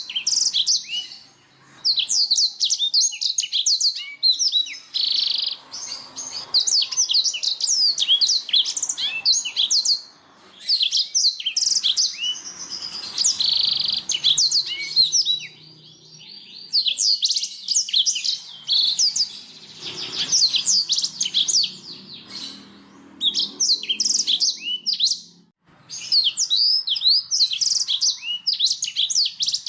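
Canary singing: long phrases of fast, repeated high notes sweeping downward, broken by short pauses, with a couple of harsh buzzy trills mixed in.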